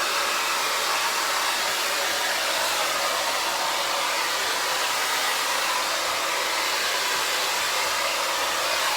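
Hand-held hair dryer running steadily, blowing a dog's coat dry after a bath: an even, unbroken rush of air.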